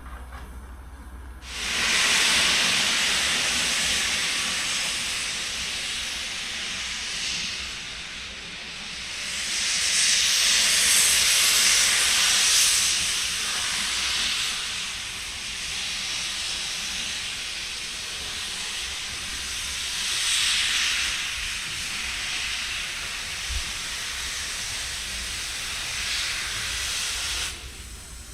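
Steam hissing loudly from German class 01 steam locomotive 01 066 standing still: a long, even blow-off that starts suddenly, swells twice and cuts off suddenly near the end.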